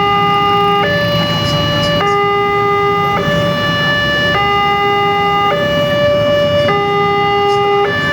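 Railway level-crossing warning alarm sounding a two-tone electronic signal, alternating between a lower and a higher tone about every second.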